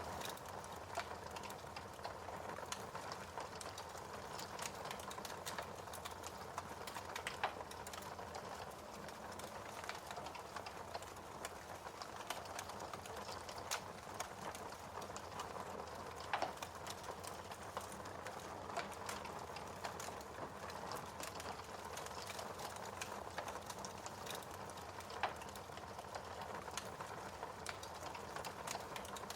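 Wood fire burning in a fireplace, crackling steadily with many small ticks and a few louder pops.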